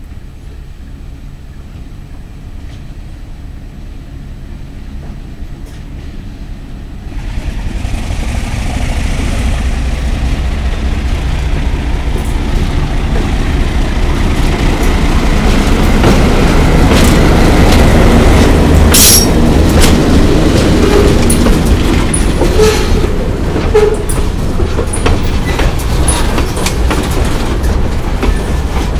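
Alco RS-11 diesel locomotive drawing closer, its engine rumble growing louder from about seven seconds in. It then runs past with wheels clicking over the rail joints and a brief squeal near the end.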